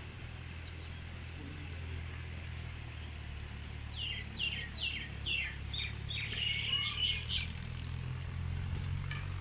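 A songbird calls about four seconds in: a quick run of about seven falling notes, then a short jumbled warble. Under it a steady low engine hum runs throughout.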